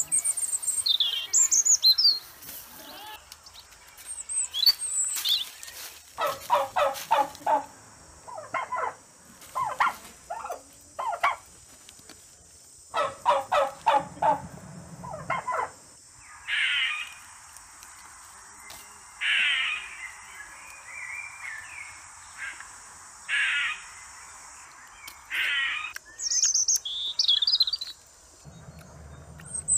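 Wild birds calling and chirping throughout, several voices overlapping. There are short high chirps, quick runs of repeated notes a few times, and longer calls every few seconds.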